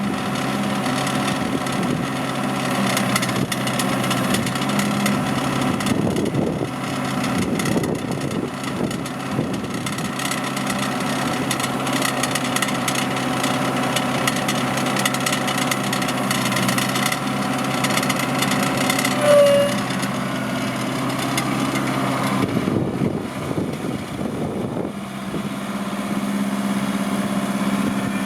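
Engine of a Cabela's LM50H 4x4 compact tractor running, its note shifting a few times as it works. A brief high tone sounds about two-thirds of the way through.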